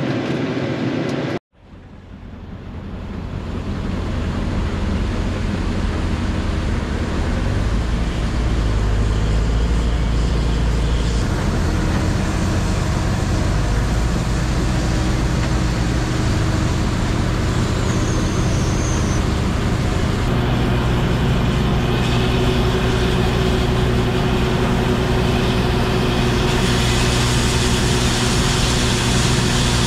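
A big diesel farm-machinery engine running steadily under load. It fades in just after a brief cut to silence near the start, then holds an even, low-pitched drone.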